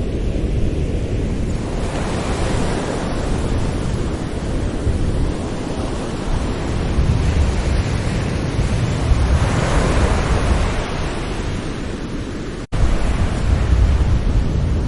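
Sea waves breaking gently on a shore: a continuous wash of surf with a deep rumble, swelling as waves break about two seconds in and again around the middle. Near the end the sound cuts out for an instant and comes straight back.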